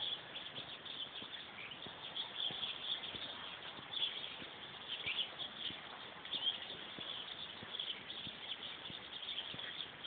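Wild birds chirping and calling in the trees: many short, high chirps scattered one after another.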